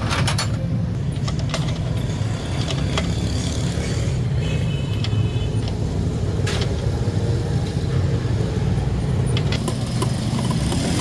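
Motorcycle engine idling steadily, with a few short metallic clicks scattered through.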